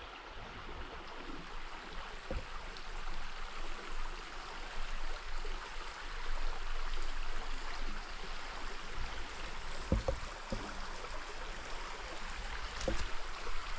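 River water running over rocks, a steady rushing, with a few soft low knocks now and then.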